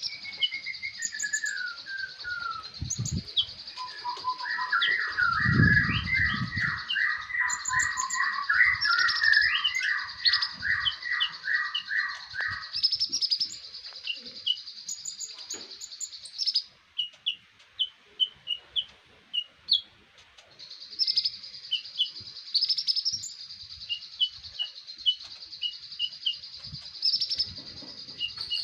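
Konin songbird singing: rapid, even trilled phrases and many short, high chirps over a steady high-pitched buzz. There is a low thump about five to six seconds in.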